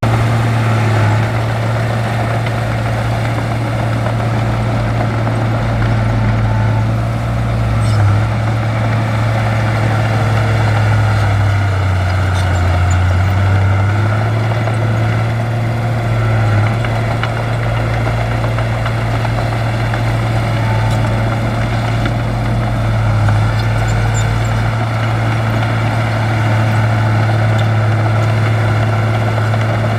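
Heavy diesel engine of earthmoving machinery running steadily with a deep, even drone, its note sagging briefly about twelve seconds in before recovering.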